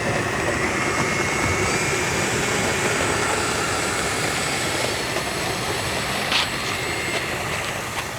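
Electric ducted-fan model jet running with a steady whine, easing off slightly, with a short sharp sound about six seconds in.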